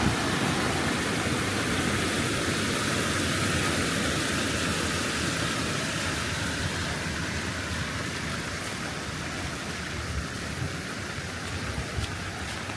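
Steady rain falling, an even hiss that slowly eases a little in level.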